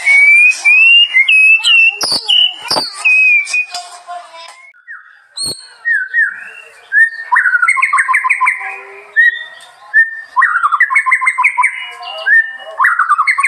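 Songbird singing: a run of rising whistled notes, then, after a brief pause, clear repeated whistles alternating with three quick trilled bursts.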